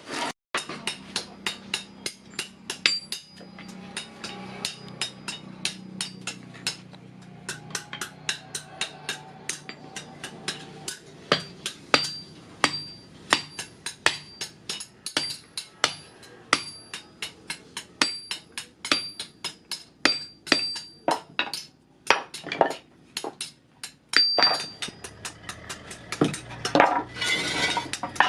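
Hand hammer blows on steel at an anvil, about two to three a second, many with a high metallic ring, with a short pause before the strikes resume.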